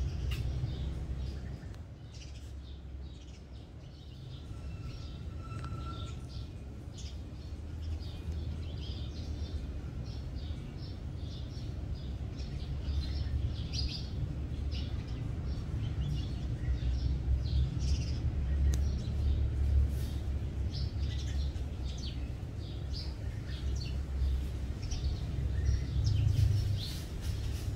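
Small birds chirping in many short, scattered calls, over a steady low rumble that grows louder after about ten seconds.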